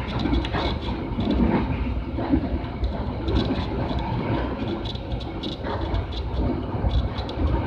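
Passenger train running along the track, heard from inside the carriage: a steady low rumble with irregular rattling and clicking from the wheels and car body.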